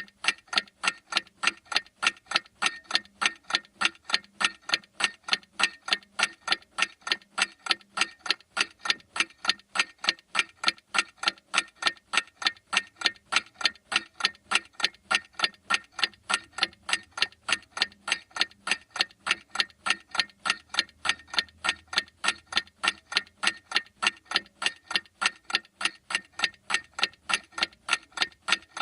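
Clock ticking steadily, a sharp, evenly spaced tick repeating at an unchanging rate.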